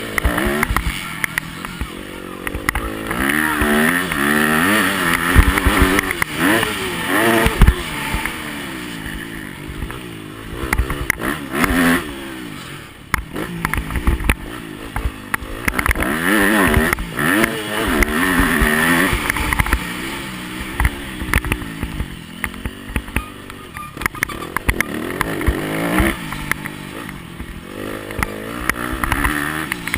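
Yamaha motocross bike's engine revving hard and backing off again and again, its pitch climbing and dropping every second or two, with rushing noise and many sharp knocks and clatters over it.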